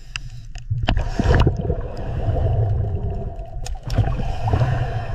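Underwater sound offered as a manatee's calls: low humming tones that swell and fade in pulses, with scattered clicks and gurgling water noise.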